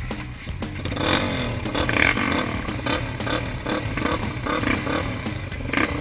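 Off-road vehicle engines running, with many irregular knocks and clatter.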